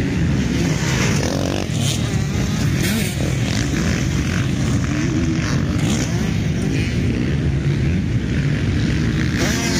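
Several motocross bikes racing on a dirt track, their engines overlapping and revving up and down as riders accelerate and back off.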